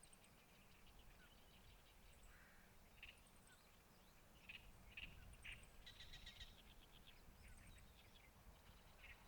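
Faint wild bird calls: scattered short chirps, with a rapid buzzy trill about six seconds in, over a low outdoor rumble.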